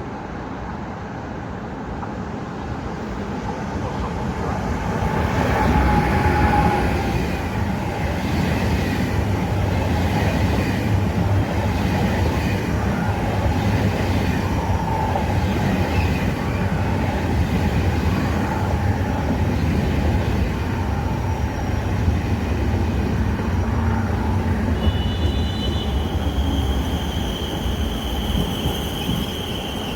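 A train running through the station, its low rumble swelling over the first few seconds and then holding steady, with wheels clattering over the rails. A high, steady squeal comes in near the end.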